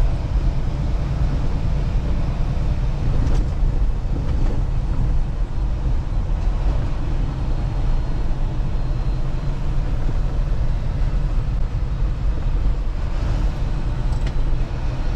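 Semi truck's diesel engine and road noise heard from inside the cab while driving: a steady low rumble with a couple of faint clicks.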